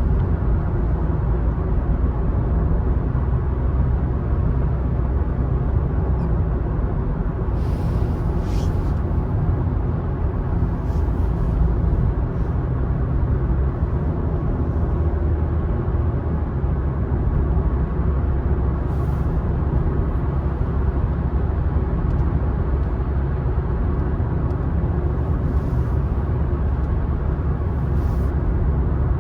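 Car driving at a steady pace: a constant low rumble of tyres and engine on the road, with a few faint short clicks.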